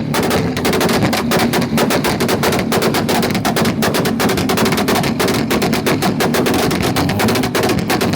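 Car engine held on a two-step launch limiter, its exhaust firing a fast, irregular string of sharp bangs and pops without a break.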